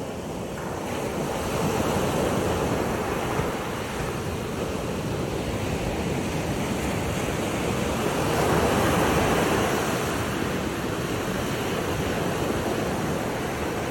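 Water rushing as a continuous wash of noise, swelling louder about two seconds in and again for a couple of seconds past the middle.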